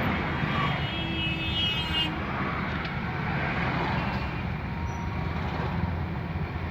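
Steady engine and road noise of a car driving in slow traffic, a continuous low rumble, with a brief faint high tone about a second in.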